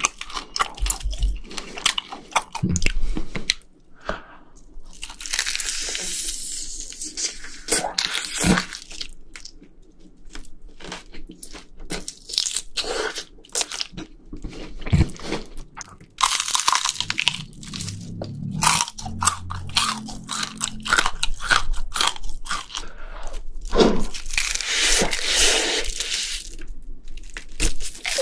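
Close-miked crunching and chewing of crispy fried chicken, with irregular crackles and several louder stretches of crunching.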